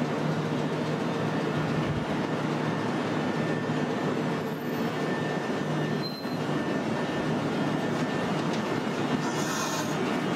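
Fukui Railway Fukubu Line train running on the rails, a steady rumble with a faint steady whine, and high-pitched wheel squeal setting in near the end.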